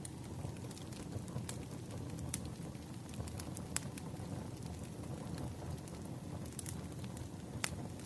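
Firewood burning, crackling: a steady low rumble with sharp pops scattered irregularly, roughly one every second.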